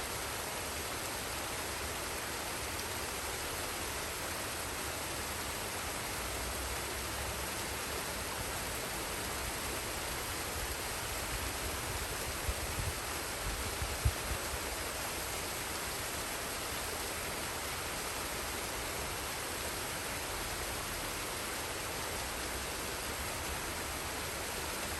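Forest waterfall and stream water rushing in a steady, even hiss. Partway through come a few brief low thuds, the sharpest about fourteen seconds in.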